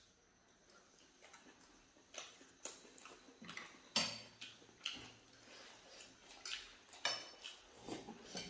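Cutlery clinking and scraping against dishes while eating: scattered short, quiet clinks, starting about two seconds in.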